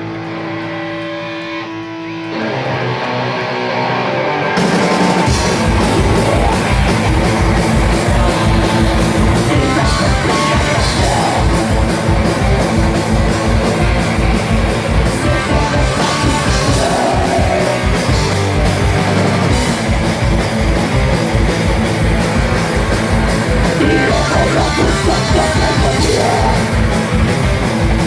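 Live band music: a sparse electric guitar passage swells and, about five seconds in, the full band comes in with a fast, driving drum beat and loud guitars.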